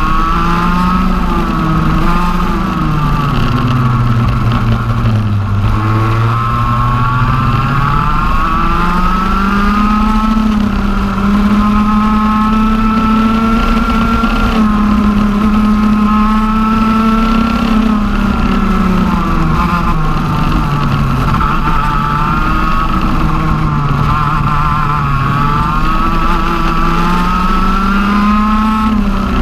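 TM OK-class 125 cc two-stroke kart engine on track, its revs rising and falling as the kart slows for corners and accelerates out of them. It drops low a few seconds in, then holds a long high, steady pitch through the middle before easing off and climbing again near the end.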